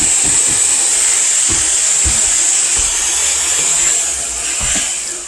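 Kitchen tap running hard into the sink as raw chicken is rinsed under it: a loud, steady hiss of water that eases off near the end.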